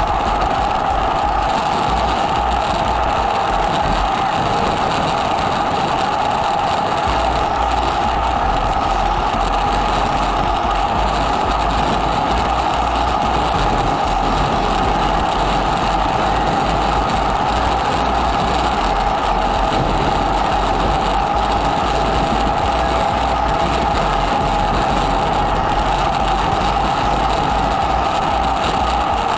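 Kawasaki W800's air-cooled parallel-twin engine running steadily at cruise through an aftermarket muffler, heard close up from the front engine guard, with a low rumble from the moving ride that grows stronger about seven seconds in.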